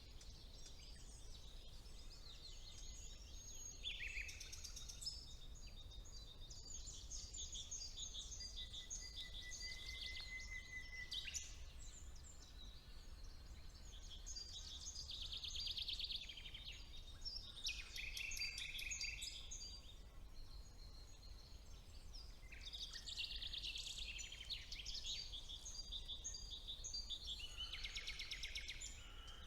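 Spring woodland birdsong: several songbirds singing overlapping phrases of rapid trills and chirps, with one held whistled note about a third of the way in. A steady low rumble runs underneath.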